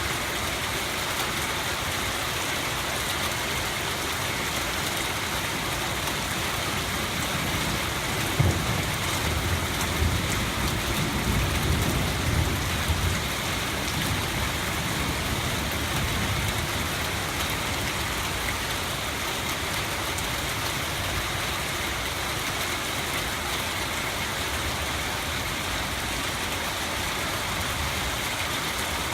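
Steady rain falling and splashing on hard surfaces. About eight seconds in, a low rumble starts sharply and lasts several seconds before fading back under the rain.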